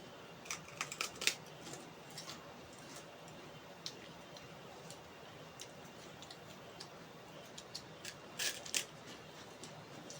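Close-up eating sounds: scattered wet clicks and smacks of a mouth chewing food, a quick cluster of them about a second in and a louder pair near the end.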